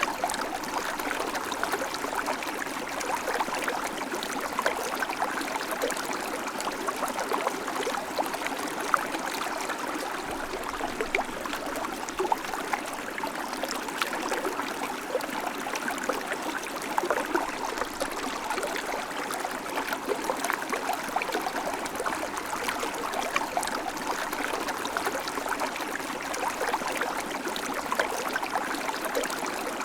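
River water flowing steadily over stones, a continuous babbling with small splashes and trickles.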